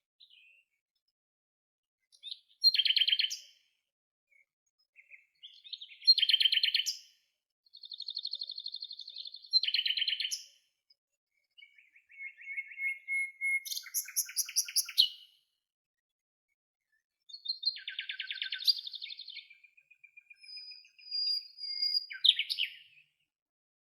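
Songbirds singing: a series of quick trilled and chirping song phrases, each one to three seconds long, with pauses of a second or two between them and no wind or water behind.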